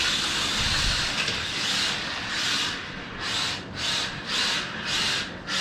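Jaibaile 1:43-scale 4WD RC drift car running, its small electric motor whirring and its tyres scrubbing on the hardwood floor, the sound swelling and dropping away again and again as it speeds up, slows and drifts.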